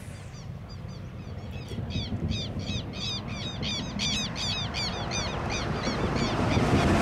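A bird calling in a long series of harsh repeated notes, about three or four a second, which build up and then fade near the end. Underneath runs a low rumble of wind on the microphone that grows louder near the end.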